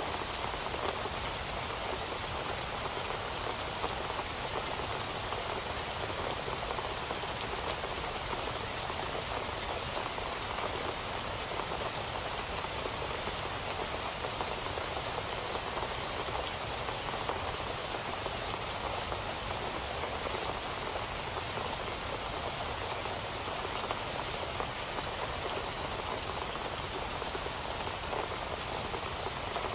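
Steady rain falling on a surface, an even hiss of many small drop ticks with no change in strength.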